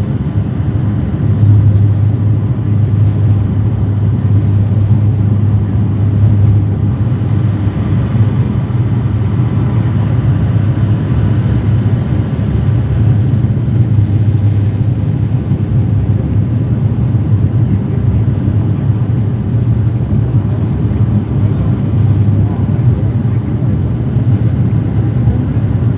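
The twin turboprop engines and propellers of a Dash 8 airliner, droning steadily with a strong low hum that barely changes.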